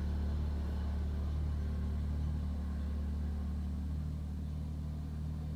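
Kubota BX2380 sub-compact tractor's three-cylinder diesel engine running at a steady speed.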